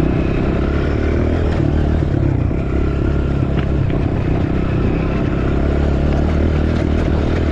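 Dirt bike engine running at a steady, fairly constant pitch while the bike is ridden along a trail, with clattering riding noise.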